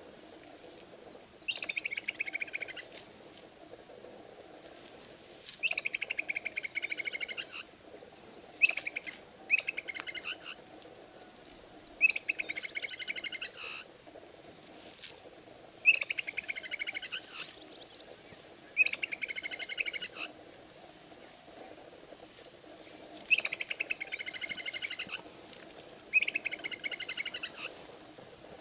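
A songbird singing short, rapidly trilled phrases about one to two seconds long, repeated every few seconds. A faint steady hum runs underneath.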